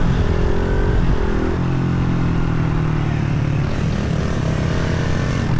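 Pit bike engine running while being ridden, holding a steady note, which drops in pitch about a second and a half in.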